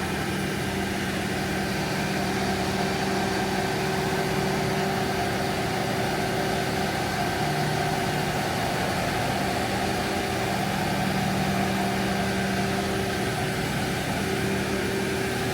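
A crane's diesel engine running steadily, a constant engine hum with its pitch dipping slightly for a couple of seconds about eight seconds in.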